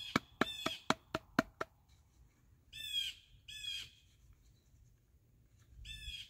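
A bird calling in pairs of short calls, three pairs about three seconds apart. A quick run of about seven sharp clicks in the first second and a half is the loudest sound.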